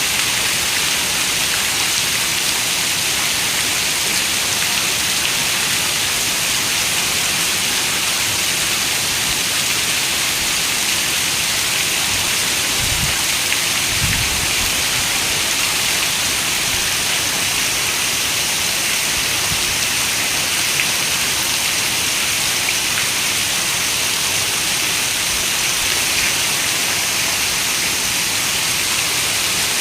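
Steady rain falling, an even hiss heaviest in the high range, with a brief low rumble about halfway through.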